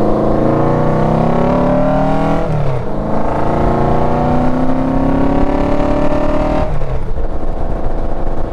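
Motorcycle engine accelerating through the gears. Its pitch climbs, drops at an upshift about two and a half seconds in, climbs again, and drops at a second upshift near the end, over a steady low rumble.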